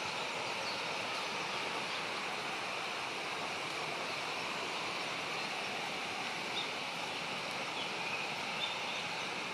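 Steady outdoor background hiss, with a few faint, short high notes scattered through it.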